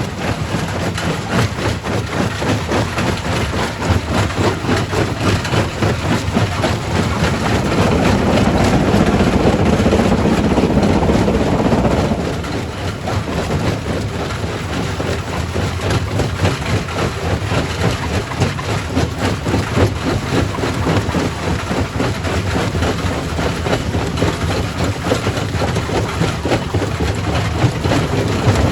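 Primary rock crusher running: a dense, steady clatter and rumble of machinery and rock, growing louder for a few seconds from about eight seconds in.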